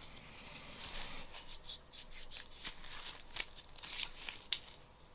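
Cleaning patch rubbed and scraped over a Glock pistol part, a scratchy rustling with scattered small clicks and one sharp click near the end.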